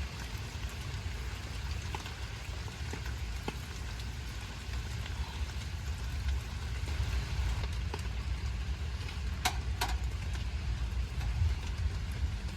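Steady light rain falling, under a continuous low rumble, with a few faint clicks and two sharp clicks close together about nine and a half seconds in.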